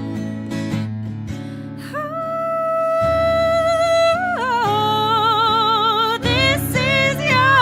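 Soul song: acoustic guitar strumming chords, joined about two seconds in by a woman's voice holding long wordless notes that waver with vibrato, rising near the end.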